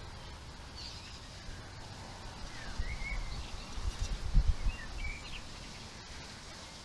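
A few short bird chirps and calls from wild garden birds, rising and falling in pitch, over steady outdoor background noise. Bursts of low rumble come in the middle and are the loudest part.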